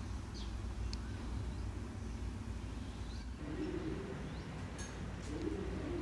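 A bird cooing softly, two low calls in the second half, over a steady low hum.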